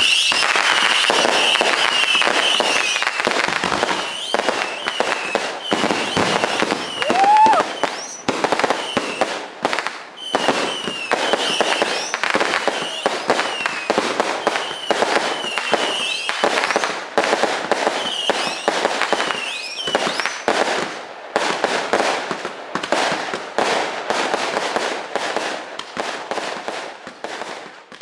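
Fireworks firing in a dense barrage: rapid overlapping bangs and crackle, with short high whistling tones among them. The barrage thins out in its last few seconds.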